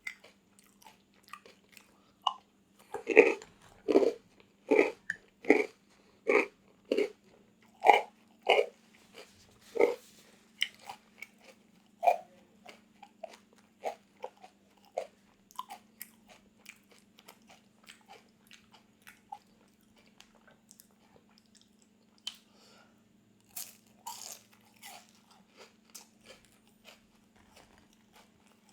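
Close-miked crunchy chewing: a run of loud, even chews about every three-quarters of a second, then softer, scattered crunches. A faint steady hum sits underneath.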